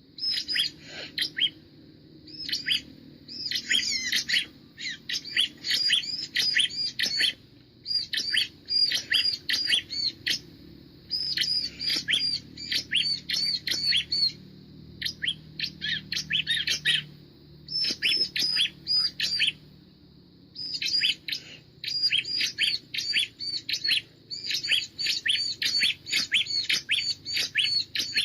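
Bar-winged prinia (ciblek) song: bursts of rapid, high chirping notes, each lasting one to a few seconds, repeated over and over with short pauses between them.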